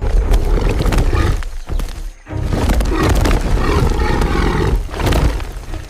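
Tiger roaring twice over background music: a roar of about two seconds, a brief break, then a longer roar of about three and a half seconds.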